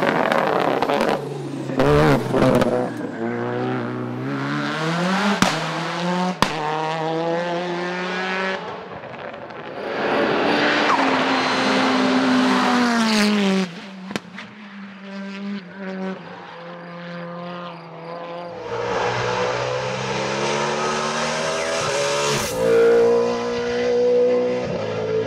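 Racing car engines at full throttle on a hillclimb, revving up through the gears and dropping back on downshifts, with a couple of sharp cracks about five and six seconds in. The sound changes abruptly twice as one car gives way to the next.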